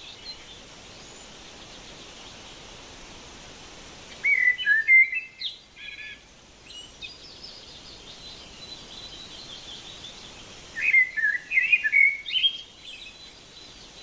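A bird singing two short phrases of quick, gliding chirps, about four seconds in and again about eleven seconds in, over a steady background hiss.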